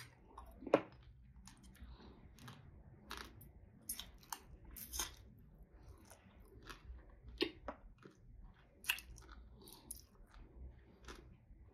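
Close-up eating sounds: chewing and mouth sounds mixed with irregular small clicks and crunches as blue crab is picked apart by hand and the meat eaten. One sharper crack comes about a second in.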